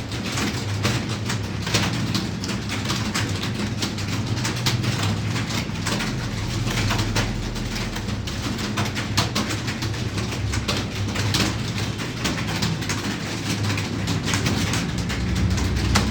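Computer keyboards being typed on fast and continuously, a dense irregular clatter of keystrokes, over a steady low hum.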